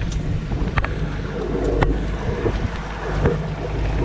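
Wind buffeting the microphone over water rushing along a sailboat's hull under sail, with a few sharp clicks about one and two seconds in.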